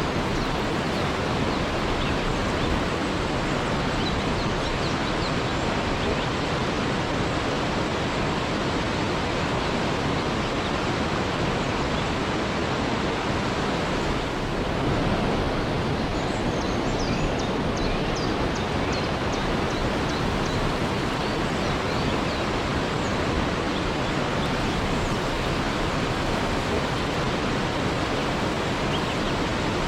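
Waterfall: a steady, even rush of falling water, with a short run of faint high chirps a little past halfway.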